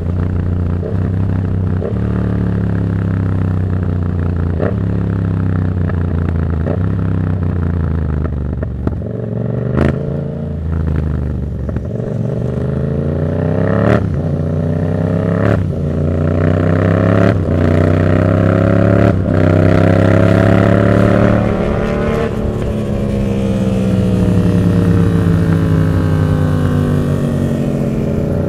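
Yamaha MT-07's 689 cc parallel-twin engine through an open Black Widow exhaust with no dB killer, pulling through the gears. The note rises repeatedly, with a sharp break at each upshift. Near the end the throttle is rolled off and the pitch falls slowly.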